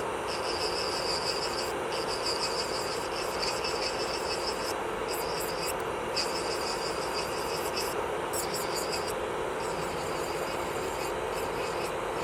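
Electric nail drill (e-file) running steadily as its bit works on the nail, a constant buzz with a high whine that drops out briefly a few times.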